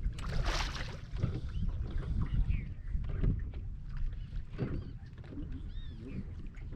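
Wind and water noise on an open fishing boat: a steady low rumble with water lapping, a brief splash-like burst about half a second in, and a few faint high chirps near the end.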